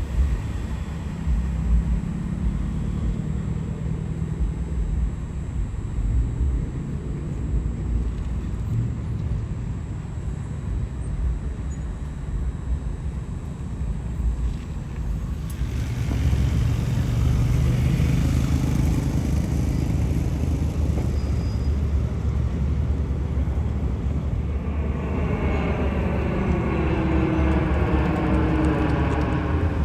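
Car engines running at a car meet: a steady low rumble that gets louder about halfway through, and near the end one engine's note climbing in pitch.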